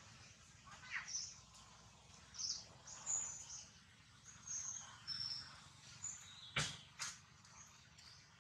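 Birds chirping faintly in the background, short high calls every second or so. A single sharp click about six and a half seconds in is the loudest sound.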